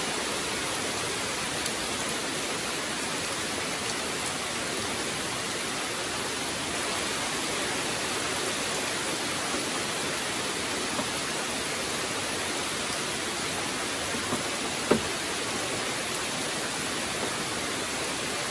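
Steady rain falling on the jungle, an even hiss throughout, with a single light knock of dishes being handled on the table about fifteen seconds in.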